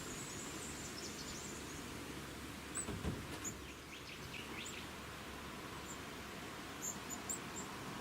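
Birds giving short, high chirps, a few early on and a quick run of them near the end, over a steady low rumble of wind. A brief thump comes about three seconds in.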